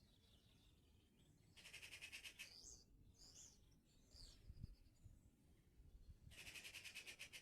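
Faint songbird song: a rapid high trill of about a second, repeated about five seconds later, with short high chirps in between.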